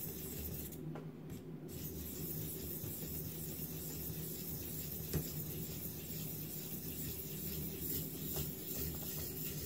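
Faint rubbing of an oiled diamond sharpening stone, about 400 grit, worked along a knife edge on a guided sharpener, with one light click about five seconds in.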